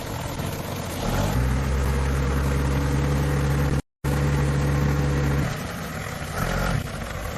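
An engine running at a steady speed, with a steady low hum that cuts out completely for a moment about four seconds in.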